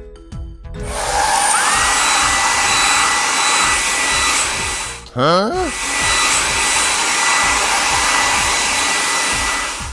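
Hair dryer-type blower running: a steady rush of air with a high motor whine that rises to pitch about a second in. It breaks off briefly around the middle for a short run of rising electronic tone sweeps.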